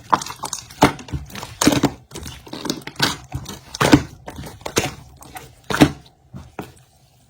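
Slime being squeezed and pressed by hand, giving sharp crackling pops roughly once a second with smaller squelches between, thinning out about six seconds in.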